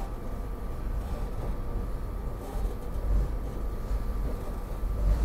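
SEPTA Regional Rail passenger car heard from inside: a steady low rumble with a faint steady hum above it.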